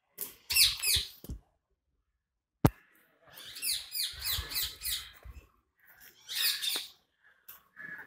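Caged birds calling in short bursts of repeated notes, with a longer run of about four to five notes a second in the middle. A single sharp click comes a little under three seconds in.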